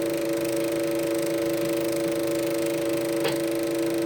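Super 8 sound projector running with a steady hum of several fixed tones over light hiss, with one brief high chirp about three seconds in.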